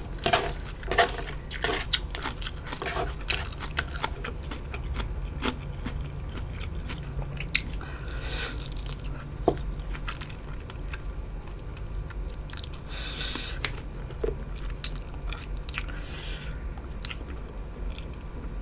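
Close-miked chewing and biting with crisp crunches, dense in the first few seconds and sparser later on.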